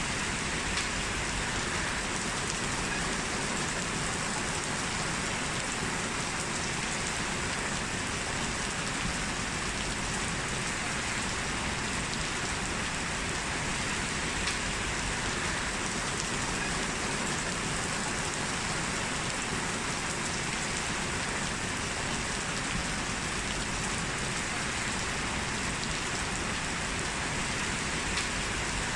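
Heavy rain falling steadily, an even hiss of drops hitting the ground with faint scattered taps.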